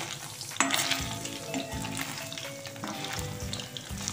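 Paneer cubes sizzling and crackling as they fry in hot oil in a kadhai. A spatula stirs them, with one sharp knock against the pan about half a second in.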